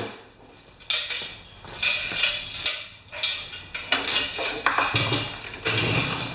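Metal clanking and scraping as a lawn mower and hand tools are handled: a string of sharp knocks and rattles, several of them a second or so apart.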